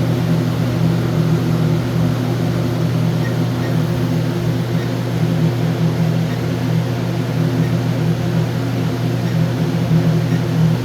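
Steady low machinery hum with several evenly spaced low tones over a background rush.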